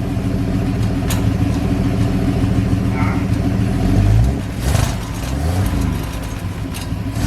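4-litre straight-six Chevrolet engine running steadily on its first start, then revved once about four seconds in, its pitch rising and settling back down.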